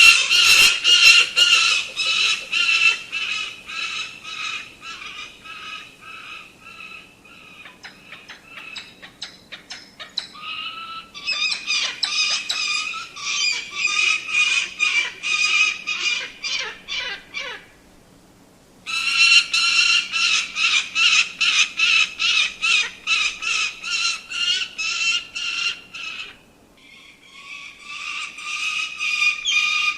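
A falcon calling in fast, evenly repeated sharp notes, about four a second, in runs several seconds long separated by brief pauses.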